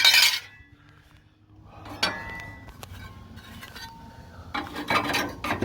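Metal parts being handled: a sharp clank with a brief ring, a lighter ringing clink about two seconds later, then a run of rattling, clattering metal near the end.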